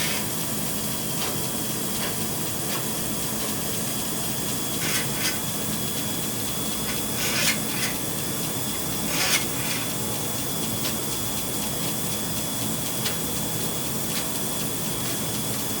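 Water rushing steadily through a drain line that has just been cleared of a grease blockage, with a faint steady whine and a few short scrapes of the rodder wire.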